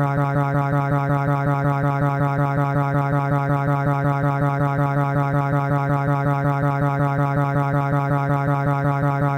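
A sustained electronic buzzing tone held on one low pitch, with a fast, even wobble of about five pulses a second. It holds without a break.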